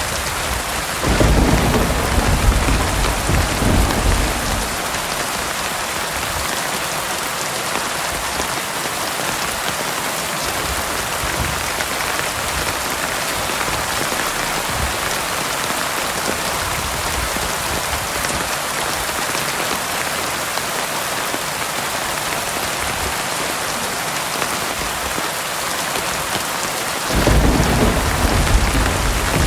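Heavy rain falling in a steady, dense hiss, with two deep rolls of thunder: one about a second in that lasts a few seconds, and another near the end.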